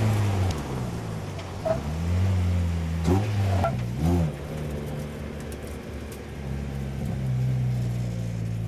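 MEV Replicar kit car's engine running hard on a sprint circuit, its revs rising and falling, with two brief dips about three and four seconds in.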